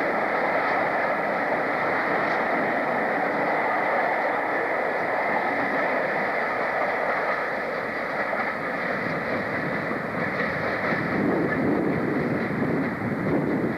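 A train running, a steady rushing noise with more low rumble in the last few seconds.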